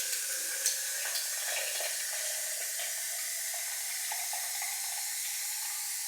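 Water running steadily from a tap into a sink, with one short knock about two-thirds of a second in.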